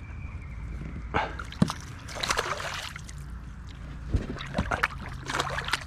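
Water splashing and sloshing in short bursts several times as a hooked Australian bass thrashes at the surface beside a kayak during the fight.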